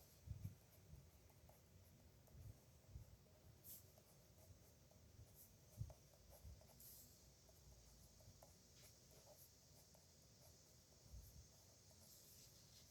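Faint scratching of a pen on paper as someone writes by hand, in short strokes, with a few soft knocks of the pen or hand on the desk.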